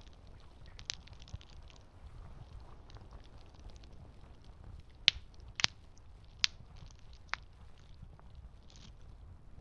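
Campfire crackling: a steady low rumble of the flames with small crackles all through and a few sharp pops, the loudest three or four coming in the second half.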